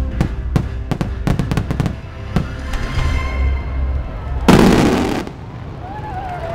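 Fireworks going off in quick succession over orchestral show music, with the music fading out, then a single loud burst about four and a half seconds in.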